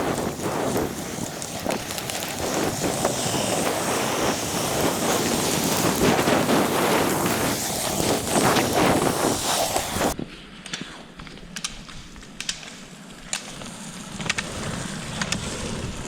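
Roller skis rolling on wet pavement, with heavy wind buffeting the microphone. About ten seconds in the sound cuts to a quieter stretch with scattered sharp clicks.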